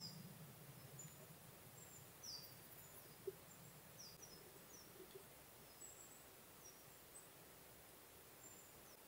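Near silence outdoors, with faint high wild bird chirps: a dozen or so short notes, each sliding downward, scattered throughout. A low rumble in the first couple of seconds and a single sharp click about three seconds in.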